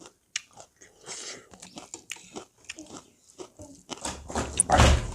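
Close-up mouth sounds of someone eating spicy pork curry: a run of small wet clicks and smacks from chewing and biting. Near the end come two louder rushes of noise.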